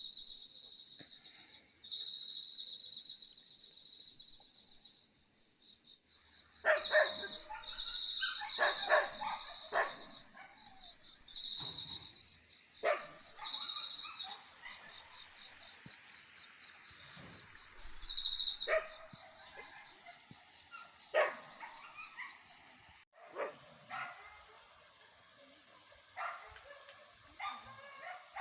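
A dog barking on and off, with short high-pitched calls repeating in the background every second or two.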